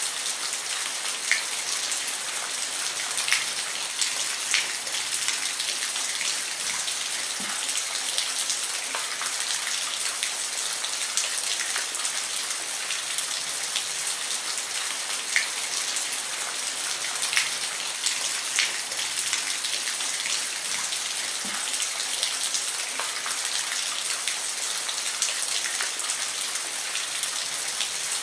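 Steady rain falling on a roof: a constant hiss of rain with scattered louder drips ticking every second or two.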